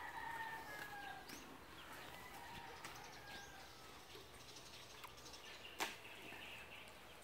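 Faint bird calls: drawn-out, slightly falling whistled notes in the first few seconds and again near the end. A single sharp click or knock about six seconds in.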